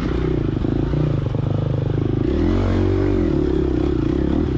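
Gas Gas EX250F four-stroke single-cylinder dirt bike engine running hard on a woods trail, the revs dropping briefly about halfway through and then picking back up.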